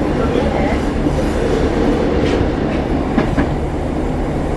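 Passenger train running, heard from inside the carriage: a steady rumble with a few clacks of the wheels over the rail joints.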